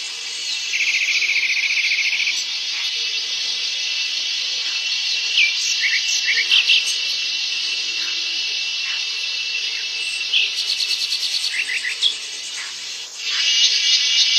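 Dense, steady chorus of forest insects, high-pitched and buzzing, with fast pulsing trills, and a few short bird chirps in the middle. A louder pulsing trill sets in near the end.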